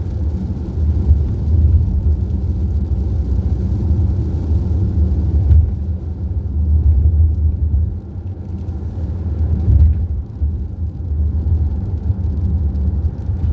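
Steady low rumble of a car driving at road speed, heard from inside the cabin: road and engine noise.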